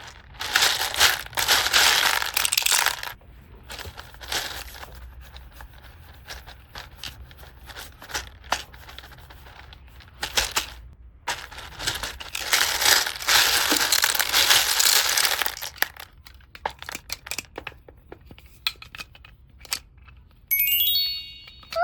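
Plastic packaging crinkling and tearing as toys are unwrapped, in two long loud stretches with small clicks and handling noises between. A short electronic tone stepping up in pitch sounds near the end.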